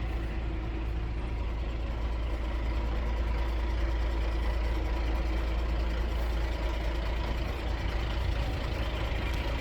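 Renault G230 truck's diesel engine running steadily at idle.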